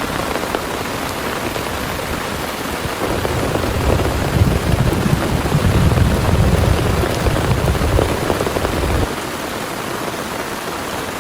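Heavy rain pouring steadily, with a deep low rumble joining in about three seconds in and stopping abruptly near nine seconds.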